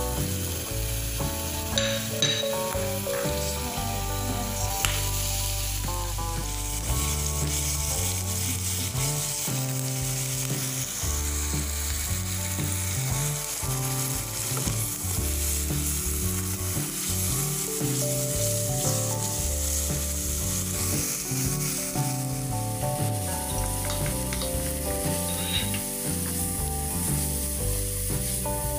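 Ginger-garlic paste and sliced onions sizzling as they fry in oil in an enamel pan, stirred with a wooden spoon.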